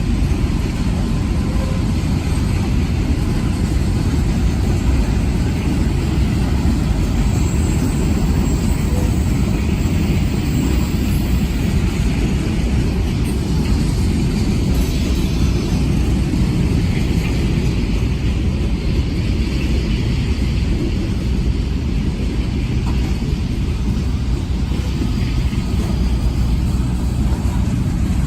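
Freight train cars rolling past on the rails, a steady loud rumble.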